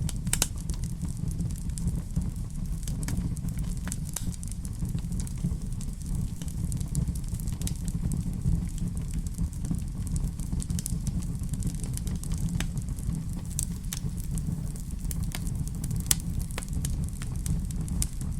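Wood fire burning in a fireplace, crackling with sharp pops at irregular moments over a steady low rumble.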